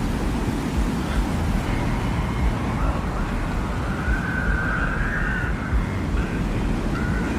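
Synthetic desert wind ambience: a steady low rumbling wind with faint thin whistling tones drifting above it, one held louder for about a second and a half past the middle.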